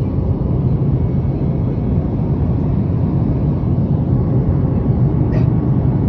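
Steady low rumble of engine and airflow noise inside the cabin of a Boeing 737 MAX 8 airliner in flight.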